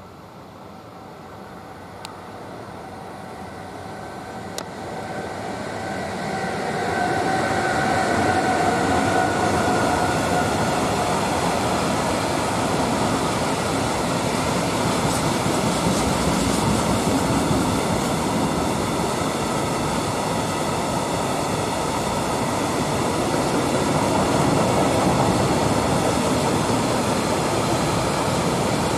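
A Newag Dragon (E6ACT) electric freight locomotive approaches and passes hauling tank wagons, growing louder over the first seven seconds, with a light whine as it goes by. A long string of tank wagons then rolls past, their wheels running steadily on the rails.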